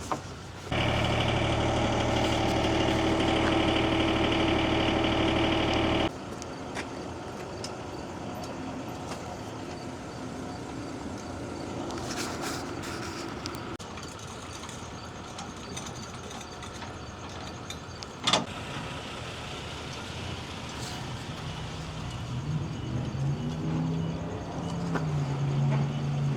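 An engine running steadily and loudly for about five seconds, then cutting off abruptly. Quieter vehicle noise follows, with a single sharp knock partway through.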